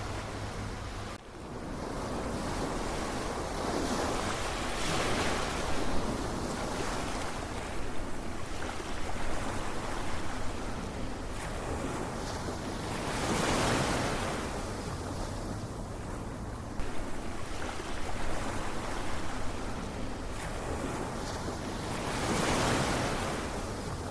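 Ocean surf: waves breaking and washing in, swelling three times about every nine seconds over a steady rush of water, with a brief drop in level about a second in.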